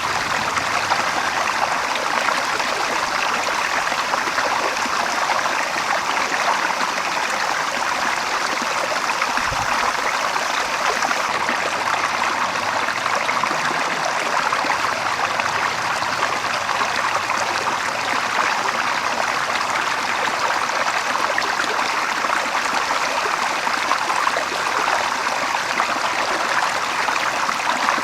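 Running water flowing steadily, an even rush of a stream or channel.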